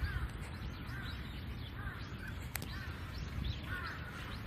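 Birds calling outdoors in short, repeated, downward-sliding calls, over a low rumble, with one sharp click about halfway through.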